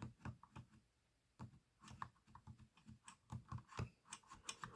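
Faint, irregular little clicks and taps of a small tool rubbing and pressing down the rippled edge of a sticker on a plastic toy truck.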